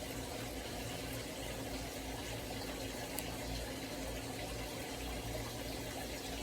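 Steady background hiss with a low, even hum, unchanged throughout, and one faint tick about three seconds in.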